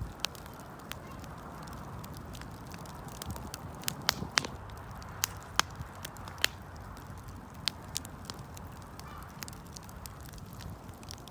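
Wood fire burning: a steady low rush of flame with sharp pops and crackles scattered irregularly, a cluster of louder snaps from about four to six and a half seconds in.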